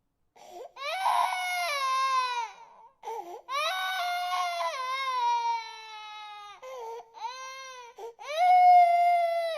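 Baby crying: a run of long, falling wails with short gasping pauses between them, the last wail the loudest.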